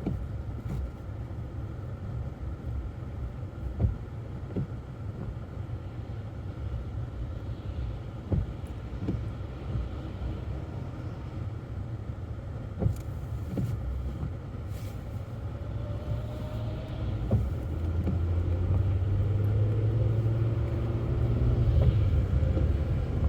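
A car's engine and tyres heard from inside the cabin while driving: a steady low rumble with a few short knocks. It grows louder and takes on a deeper engine note about three-quarters of the way through.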